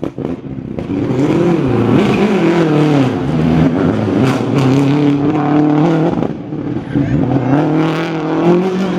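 Rally car engine revving hard as it drives past, its pitch rising and dropping several times.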